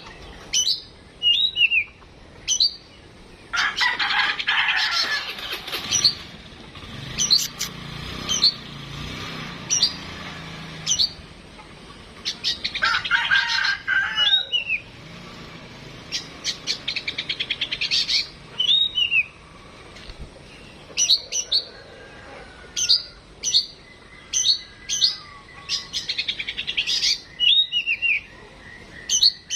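Oriental magpie-robin (kacer) singing loudly: sharp whistled notes and falling slurs, with bouts of rapid buzzy trills, separated by short pauses.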